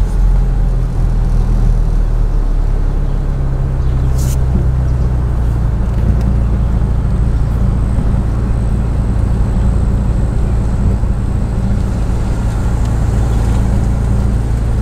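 A vehicle's engine running steadily at low speed as the vehicle creeps along, a deep, even drone. There is one sharp click about four seconds in.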